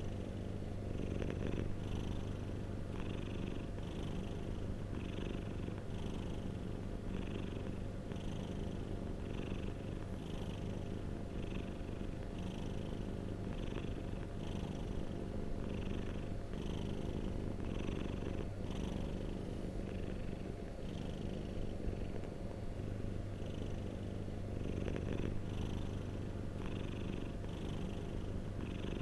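Domestic cat purring steadily and close up: a continuous low rumble with a soft rasp that pulses in an even rhythm, about once every second or less.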